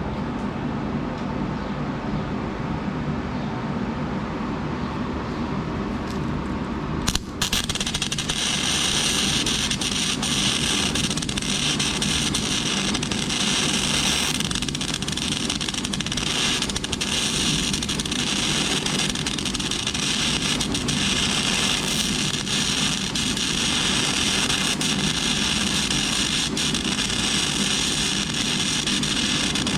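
Flux-core arc welding with a wire-feed welder: after a steady hum, the arc strikes with a sharp click about seven seconds in and then runs on as a continuous crackling, sputtering hiss.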